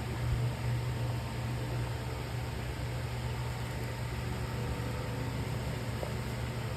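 Steady low hum with an even hiss, unchanging throughout, with a faint click near the end.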